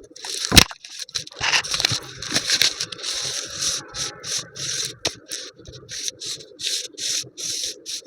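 Hand scraping and rubbing strokes of pizza preparation, irregular at first and then settling into a steady rhythm of about three strokes a second. A sharp knock comes about half a second in.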